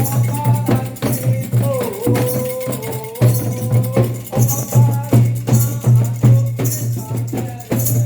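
Candomblé ceremonial music: hand drums and a shaken rattle keep a steady, even beat while a voice sings long, sliding held lines over it.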